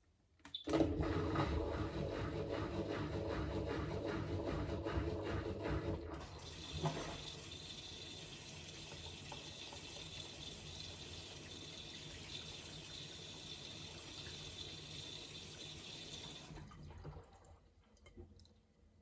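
Miele Navitronic W3985 washing machine taking in water at the start of a wash cycle: water rushing in, at first with a quick regular pulsing, then from about six seconds a steady hiss that stops a couple of seconds before the end.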